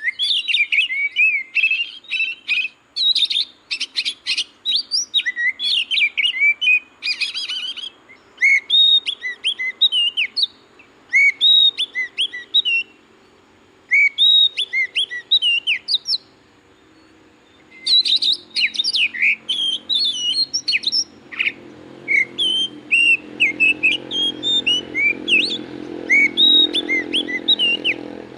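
Oriental magpie-robin song: varied whistled phrases and chirps in repeated runs, broken by a few short pauses. A low steady hum builds under it in the last several seconds.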